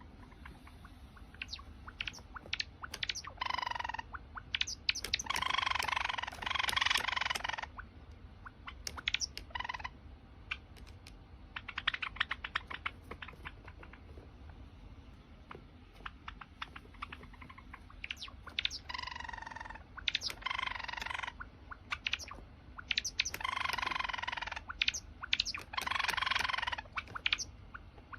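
Java sparrow singing: runs of rapid dry clicks that lead into long, ringing, wavering notes, repeated several times.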